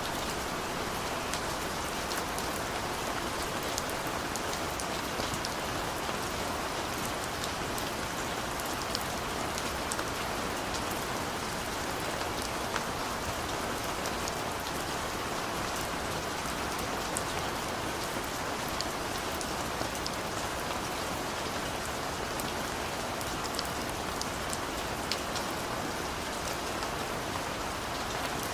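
Steady rain falling, an even hiss with scattered patter of individual drops.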